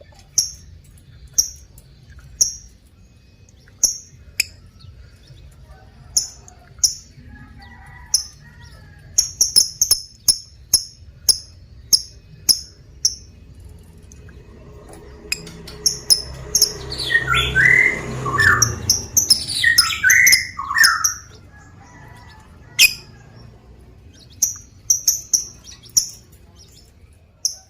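Lovebird calling: short, sharp high chirps repeated at irregular intervals, with a louder run of falling, squawky calls about midway.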